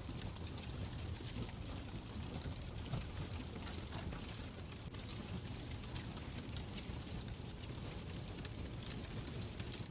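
Fireplace crackling: a steady low rumble of the fire with many small, irregular pops and snaps.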